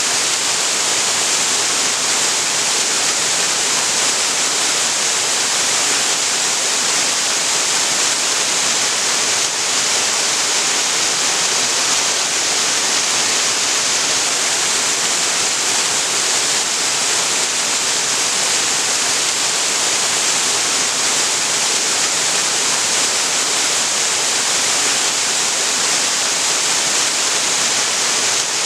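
Waterfall on Todd Creek pouring steadily, a constant, even rush of falling water with a hissing top.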